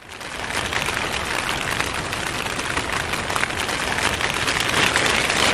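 Rain pattering hard on a shelter in a gale: a dense, steady hiss of many small drop impacts, rising a little in loudness.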